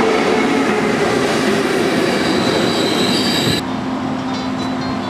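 Electric passenger train with Eurostar City coaches running along the platform close by: a loud steady rumble of wheels on rail, with high wheel squeal about two to three seconds in. It breaks off suddenly about three and a half seconds in, giving way to quieter running with a steady low hum.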